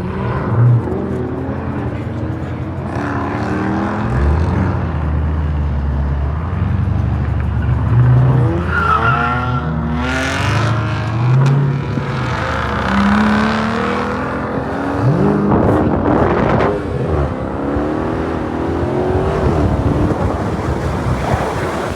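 Several muscle-car engines revving up and down, with a heavy low rumble for much of the time, and tires squealing in a burnout about halfway through.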